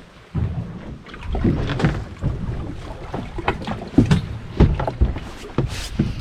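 Irregular knocks and clunks aboard a small fishing boat, with a low rumble of wind on the microphone.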